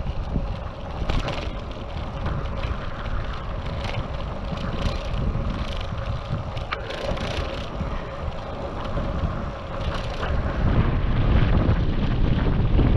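Wind buffeting an action camera's microphone on a moving bicycle, with rolling road noise. It grows louder about ten seconds in, and there is a single sharp click about two-thirds of the way through.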